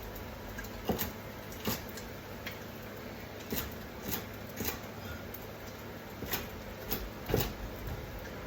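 Irregular light clicks and knocks, about nine or ten of them spread unevenly, over faint room tone.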